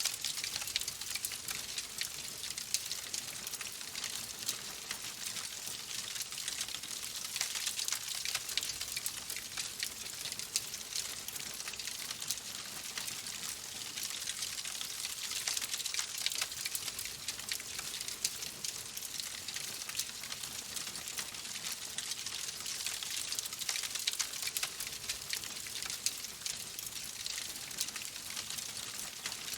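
Wood fire crackling in a fireplace: a steady hiss thick with small, irregular pops and snaps.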